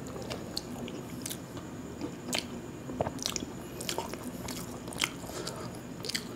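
Close-miked chewing of a mouthful of khichuri with fried sides: soft, irregular wet clicks and smacks of the mouth.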